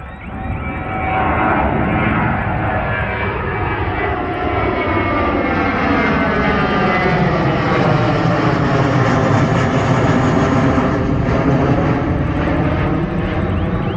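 Airbus A321 jet airliner on final approach to land, its engine noise swelling loudly over the first second or so and holding, with whining tones that slowly slide in pitch as it passes.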